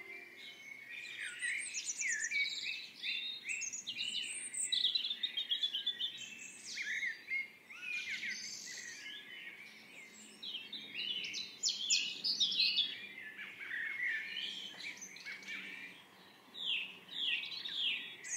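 Birds singing: a dense run of quick chirps and trills, thinning briefly about halfway through and again near the end.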